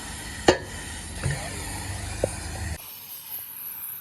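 A few sharp knocks on metal parts, the first the loudest, over a steady low hum that cuts off abruptly near the end.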